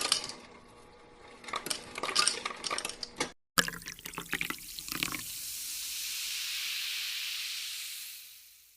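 Clicks and clinks of a cup being handled, then a Sprite fountain dispenser pouring into the cup: a steady fizzing hiss for about three seconds that fades out near the end.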